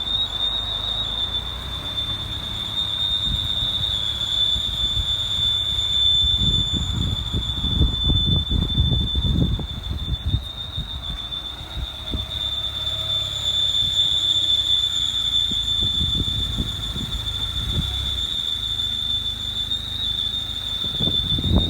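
A steady high-pitched squeal, one unbroken piercing tone, coming from under the hood of a 2011 Mini Cooper Clubman, over the low sound of the car running that swells now and then.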